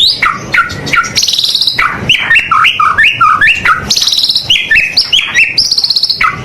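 White-rumped shama (murai batu) in full song: a fast, varied run of short whistled notes that swoop up and down, broken by rapid buzzy trills about a second in, around four seconds in, and near the end.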